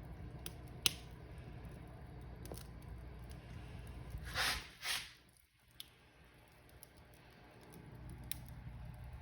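Wood fire in a fireplace crackling, with scattered sharp pops, the loudest about a second in, over a low rumble of the flames. A little past the middle come two brief hissing bursts, after which the low rumble drops away for a few seconds and then builds back.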